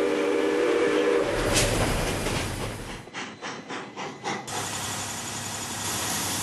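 Steam whistle of the 4-6-2 Pacific steam locomotive 2719, sounding a steady chord for about a second, followed by hissing steam. A few seconds in, a run of sharp beats about three a second comes through, then a steady steam hiss.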